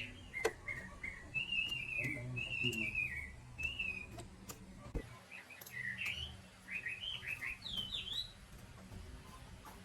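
A bird singing in warbling, gliding phrases of chirps, with a few sharp clicks heard over it.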